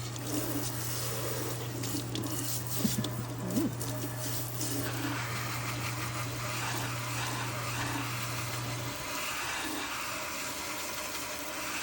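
Kitchen sink tap running steadily, water splashing into the sink as a parrot is bathed under it. A low steady hum beneath the water stops about nine seconds in.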